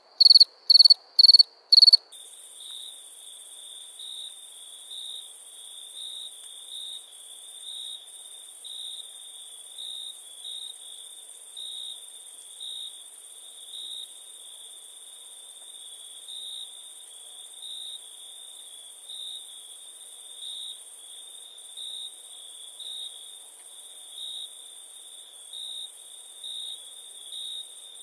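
Crickets chirping at night. For the first two seconds one cricket chirps loudly about three times a second, then the sound changes abruptly to a quieter, continuous trill that swells about once a second, with a thin, high insect buzz above it.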